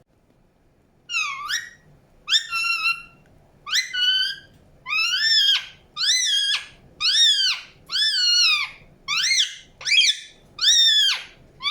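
Indian ringneck parakeet calling about ten times, roughly once a second, each call a loud squawk that rises and then falls in pitch.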